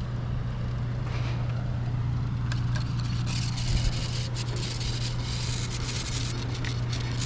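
Outdoor background noise: a steady low hum under an even rushing haze, with faint clicks and ticks starting about two and a half seconds in.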